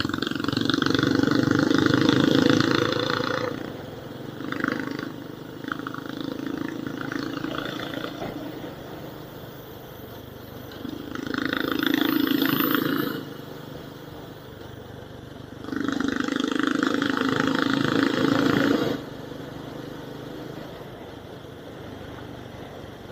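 Vehicle engine and road noise picked up by an action camera's built-in microphone while driving, swelling loud three times and easing off in between.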